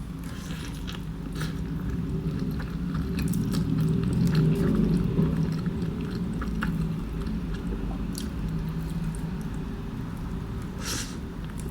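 A person chewing a mouthful of breakfast burrito close to the microphone, with soft wet mouth clicks throughout.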